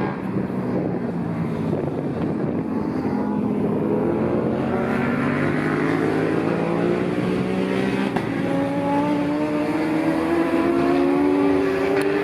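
Several lightweight racing sportbikes running hard on the circuit. Their engine notes climb in pitch as they accelerate and grow louder toward the end.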